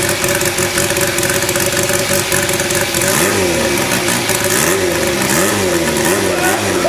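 Hand-built 125 cc four-cylinder "125 Four" engine in a Honda Monkey-style crankcase, running on a bench stand, with its throttle worked by hand at the carburettor. It runs steadily at first, then from about halfway through is blipped several times in quick succession, the pitch rising and falling with each blip.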